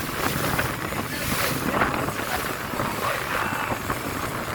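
Wind buffeting the microphone over a steady wash of water on open water.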